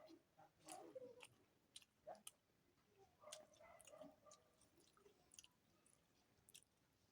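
Faint, close-up mouth sounds of a person chewing food: wet smacks and clicks every second or so.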